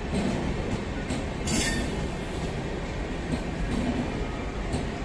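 Passenger coaches of an Indian express train rolling past along the platform, with a steady rumble of wheels on the rails. A brief high wheel screech comes about a second and a half in.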